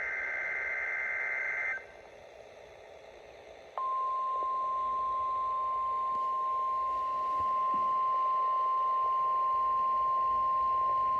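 NOAA Weather Radio alert: the end of a warbling SAME digital data burst, then about two seconds of hiss, then the steady 1050 Hz warning alarm tone that starts about four seconds in and holds, announcing a tornado watch.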